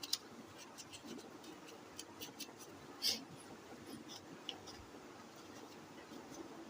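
Faint scratching and light clicking from the mesh strainer of an air-cooler water pump being cleaned by hand, with one louder scrape about three seconds in.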